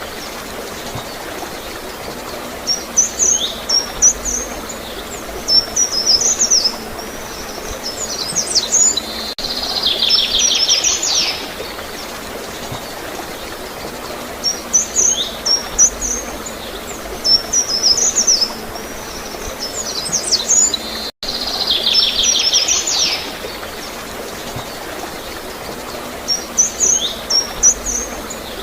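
A songbird singing short, high chirping phrases every few seconds, with a longer buzzy trill about every 12 seconds, over the steady sound of gurgling, flowing water.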